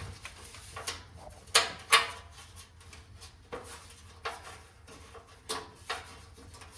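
A series of sharp metal knocks and clanks, two loudest close together about a second and a half in, as the lawn mower's unbolted body panel is worked loose and handled.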